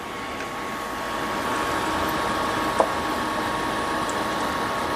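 Battered plantain halves frying in hot oil in a skillet: a steady sizzle that grows louder over the first second or so, then holds. About halfway through there is a single sharp click, and a thin steady tone runs underneath.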